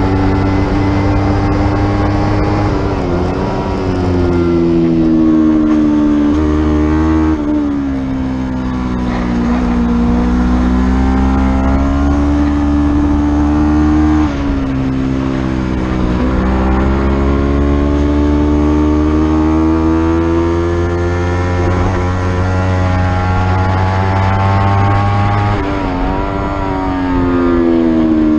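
Racing motorcycle engine at race pace, its note climbing and falling in long sweeps as it is revved through the gears and backed off for corners, with sudden drops about 3, 7, 14, 16 and 26 seconds in. A steady rush of wind noise lies under it.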